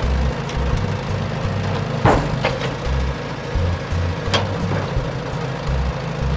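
Cartoon vehicle engine running steadily, with two sharp knocks, one about two seconds in and one a little past four seconds, over background music.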